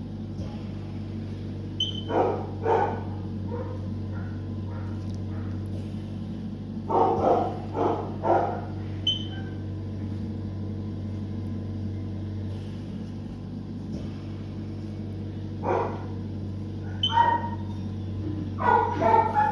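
A dog barking in short bouts of a few barks each, spaced several seconds apart, over a steady low hum.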